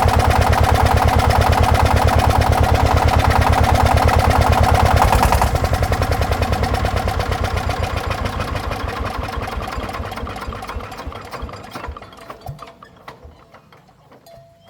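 An engine runs steadily, then about five seconds in it is shut off. It chugs more and more slowly and fades to a stop over the next several seconds.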